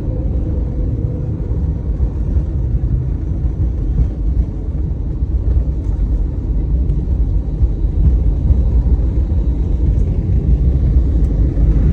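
Airliner landing: a steady low rumble that grows louder about eight seconds in.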